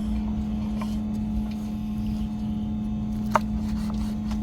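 A steady machine-like hum with a low rumble beneath it, and a single sharp click about three seconds in.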